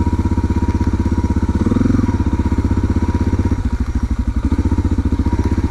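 Suzuki DR650's single-cylinder engine running, with a fast, even beat of firing pulses and a brief rise in revs about two seconds in.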